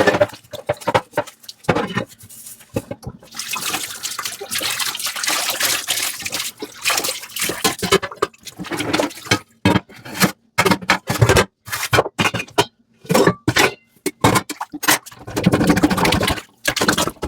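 Washing dishes by hand in a sink: sponge scrubbing, water splashing and dripping in irregular short strokes, with brief pauses.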